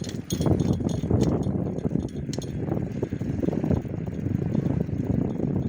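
Wind buffeting the microphone on a moving bicycle, a steady rumble, with light metallic clinks and rattles from the bike near the start and again about two and a half seconds in.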